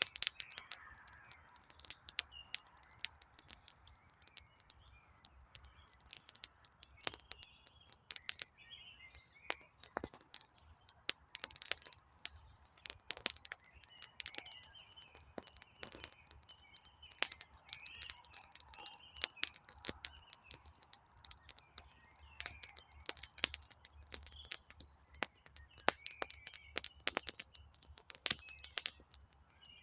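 Wood campfire crackling, with frequent sharp pops and snaps. Small birds chirp intermittently behind it.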